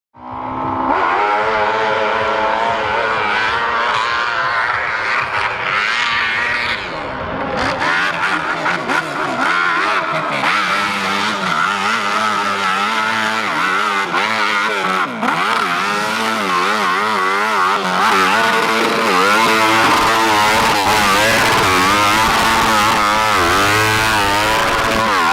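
Off-road motorcycle engine revving hard, its pitch climbing and dropping over and over as the throttle is worked.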